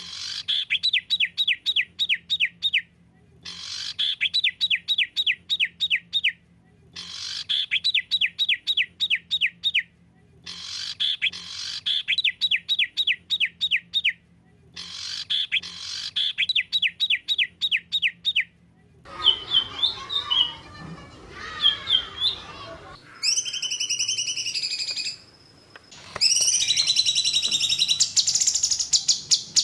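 Recorded songbird song of the kind looped for masteran, to teach caged birds: a rapid trill of sharp chirps repeated in bursts of about three seconds with short gaps between them. About two-thirds in it changes to varied calls, then a fast, higher trill.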